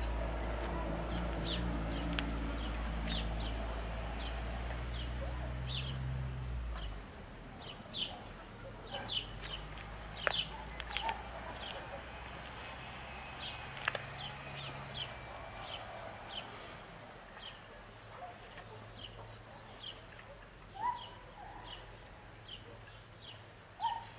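Small birds chirping, many short high calls scattered throughout, over a low steady hum that stops abruptly about seven seconds in.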